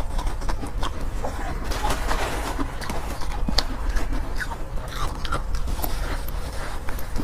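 Close-miked chewing of soft, powdery ice, heard as a continual run of small crunches and crackles.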